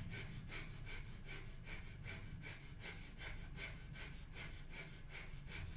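Breath of fire: rapid, rhythmic, forceful breaths through the nose, about three to four a second, each exhale pumped from the navel.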